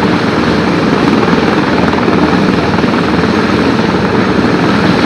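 Airbus H145 helicopter running close by: a loud, steady rush of rotor and twin-turbine noise.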